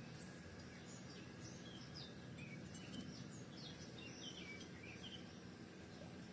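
Small birds chirping and twittering in quick short calls, thickest in the middle, over a faint steady background noise.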